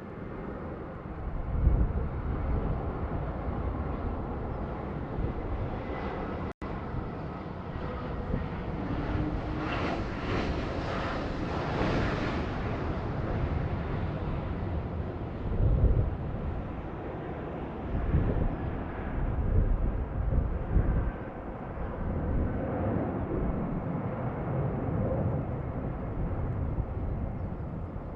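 Jet airliner engines running, swelling to a fuller, brighter sound for a few seconds around the middle as the aircraft passes closest, with strong wind gusting on the microphone throughout.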